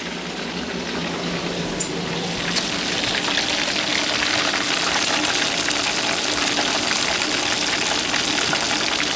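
Bacon-wrapped, battered candy bars deep-frying in hot grease in a skillet: a dense sizzle full of small crackling pops, growing louder over the first few seconds.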